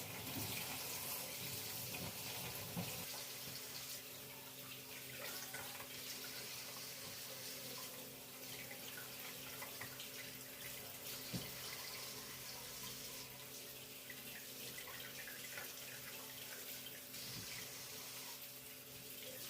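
Water running steadily from a tap into a sink, with a few light clinks.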